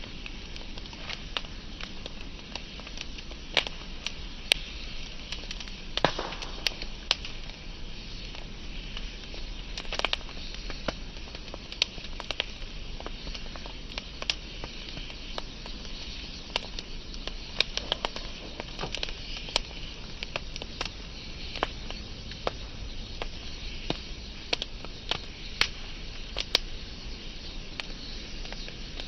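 Wood fire burning with a steady soft hiss and irregular sharp crackles and pops, a few each second.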